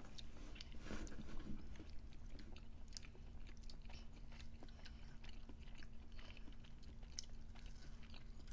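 Faint close-up chewing of a mummy dog, a hot dog wrapped in baked croissant dough, with scattered small mouth clicks.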